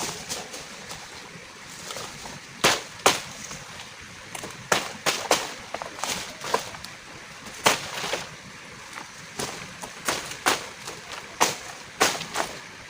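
Irregular sharp knocks or cracks, about fifteen in all and unevenly spaced, over a steady hiss.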